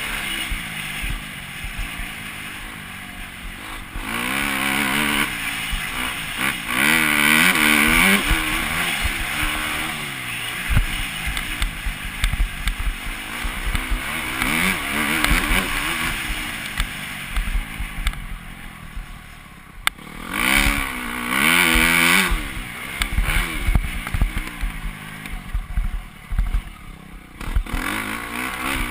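Motocross motorcycle engine revving up and down repeatedly as the bike rides the track, with louder, higher surges a few seconds in and again about two-thirds of the way through.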